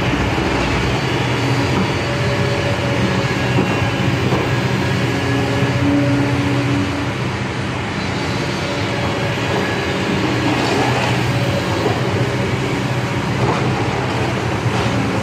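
Excavator's diesel engine running steadily, with the continuous mechanical rumble and clatter of the heavy machine.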